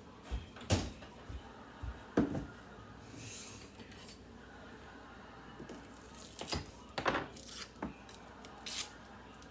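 Kitchen utensils and dishes being handled: about half a dozen scattered sharp clicks and knocks, with a brief soft high hiss about three seconds in.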